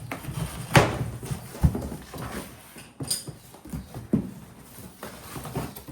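Several sharp knocks and thumps at irregular intervals, the loudest about a second in, over a low rumbling background.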